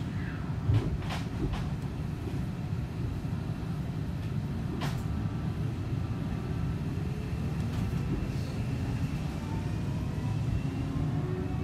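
Seibu 40000 series electric train running, heard from inside the car: a steady rumble of wheels on rail, with a few sharp knocks in the first second and a half. Near the end the traction motor whine rises in pitch as the train picks up speed.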